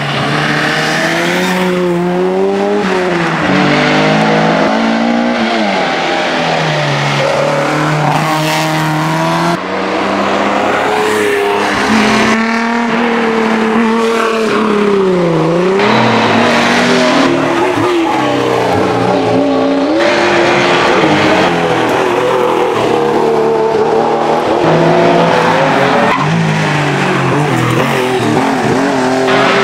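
Historic rally car engines revving hard on a stage, pitch climbing through the gears and dropping sharply on lifts and downshifts, in a run of short clips cut together.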